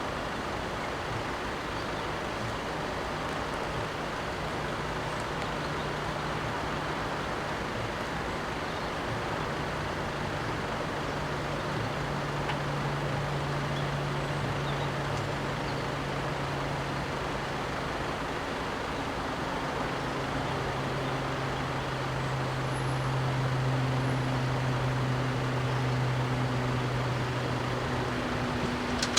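Steady low engine hum over road and traffic noise, shifting pitch now and then and growing slowly louder.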